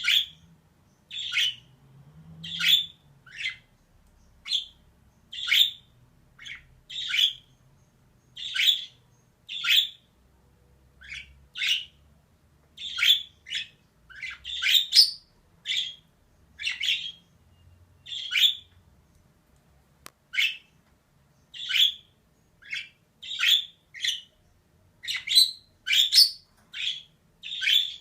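Female budgerigar calling: short, sharp squawky chirps repeated roughly once a second, now and then in quick pairs.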